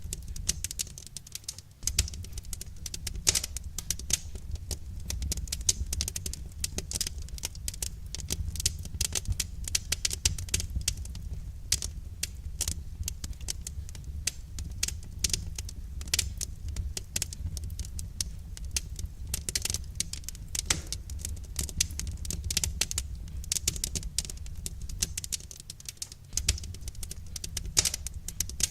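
Wood fire crackling: a dense run of irregular small pops and snaps over a steady low rumble of the flames.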